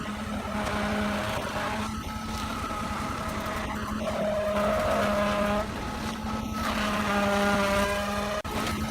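Construction machinery motor running steadily with a droning hum and a shifting whine, cut off briefly a few times.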